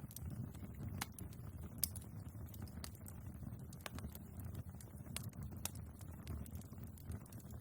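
Wood fire burning in a fireplace: irregular sharp crackles and pops over a steady low rumble of the flames, with the loudest pop about two seconds in.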